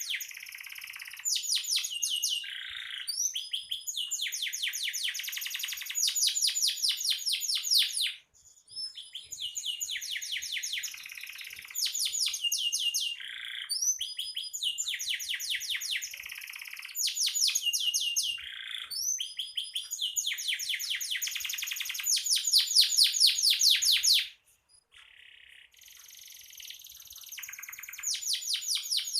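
Domestic canary singing a long song of fast rolling trills, each run of rapid repeated notes running into the next. The song breaks off briefly twice.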